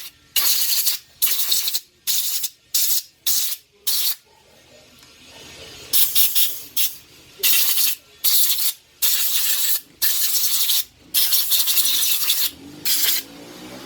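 Short hissing blasts of compressed air from a blow gun, blowing out the moped carburettor's jets and passages. There are about a dozen uneven bursts with a pause about four seconds in.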